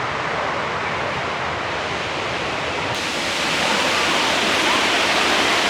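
Rushing water of Cane Creek Cascades: a steady roar of whitewater pouring over the rocks, growing louder a little past halfway through.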